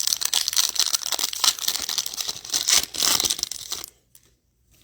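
A trading-card pack wrapper being torn open and crinkled by hand, a dense crackling rip lasting about four seconds that stops abruptly.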